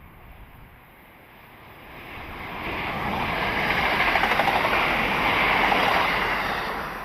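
A train passing by on the line. Its rushing running noise swells from about two seconds in, peaks, and begins to fade near the end.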